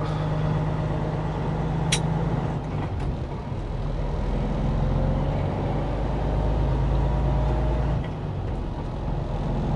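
Semi-truck's diesel engine running steadily, heard from inside the cab with road noise, its low note shifting a couple of times. There is a sharp click about two seconds in.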